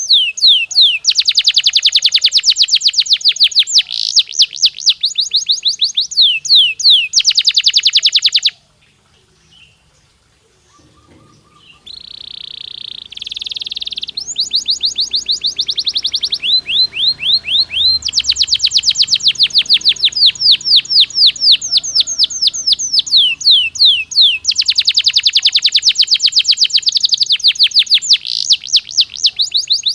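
Domestic canary singing: long rolls of rapid, high repeated notes, broken by a pause of a few seconds about a third of the way in. After the pause comes a short buzzy held phrase, then the fast rolls resume.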